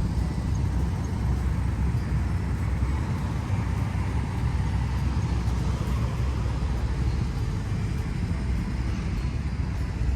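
Steady low rumble of road traffic: car engines and tyres moving along a busy street.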